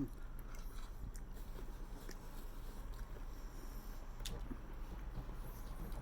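Faint chewing and mouth sounds of someone eating, with a few light clicks, over a steady low hum.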